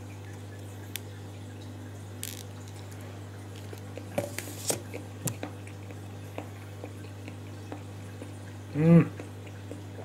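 Wet chewing and mouth sounds of a man eating yellowtail sashimi, about four to five seconds in, then a short low "mm" hum of his just before the end. A steady low hum runs underneath.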